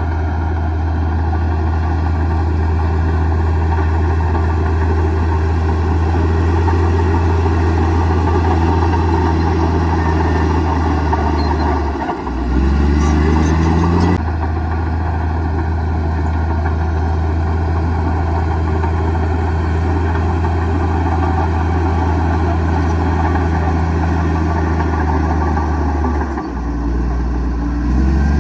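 Komatsu D58E bulldozer's diesel engine running steadily under load. Twice, about twelve seconds in and again near the end, the revs dip briefly and then climb back up.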